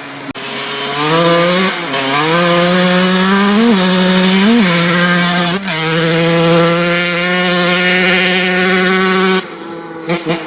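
Kawasaki KX80 single-cylinder two-stroke dirt bike engine revving through a DEP S2 aftermarket silencer. It climbs to a high, raspy pitch, is blipped quickly up and down a few times, holds high for several seconds, then drops back to idle with a couple of short blips near the end.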